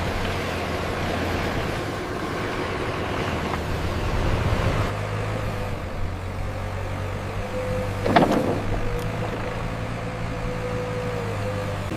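Engine of working construction machinery running steadily with a low hum. A sharp clunk sounds about eight seconds in, and a steady whine comes in around it.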